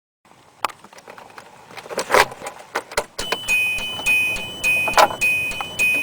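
Keys jangling and clicking at the ignition of a 2002 Hyundai Accent, then about three seconds in the car's warning chime starts beeping steadily, a little under twice a second, with another sharp click partway through, just before the engine is cranked.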